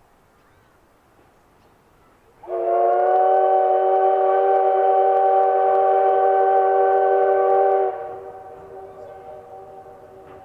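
A locomotive whistle blows one long, steady, chord-like blast of several tones, about five seconds, starting sharply a couple of seconds in. It then drops off to a faint lingering tone.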